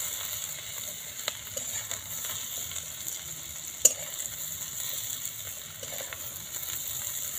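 Sliced kundri (ivy gourd) sizzling steadily in hot oil in a kadai while a metal spatula stirs and lifts them out, with a few light clinks of the spatula on the pan and one sharp clink about four seconds in.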